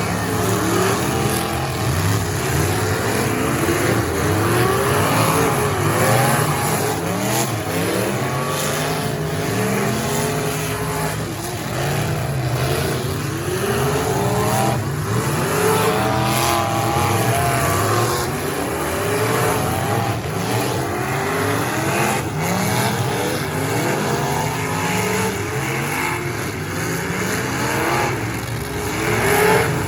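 Several figure-8 race car engines revving up and down at once, their pitches sweeping and overlapping.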